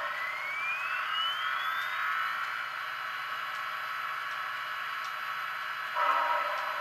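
Recorded steam-locomotive sounds from a model train's sound decoder, playing through a small cell-phone speaker. A whine rises steadily in pitch over the first two seconds or so above a steady hiss, and a short, louder sound made of several tones starts near the end.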